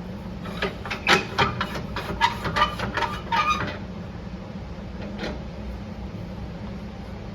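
Handling noise in a woodturning shop: a quick run of about a dozen sharp clicks and knocks over three seconds, then one more a second later, over a steady low machine hum.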